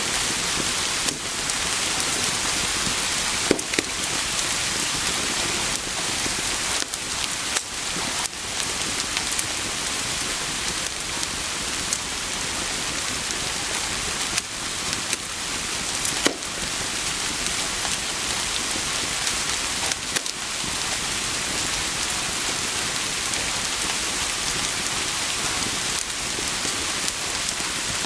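Steady rain pouring, a dense even hiss, with a few sharp crackles and pops from a burning wood fire scattered through it.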